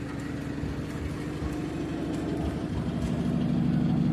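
A motor vehicle's engine running steadily at idle, gradually getting louder.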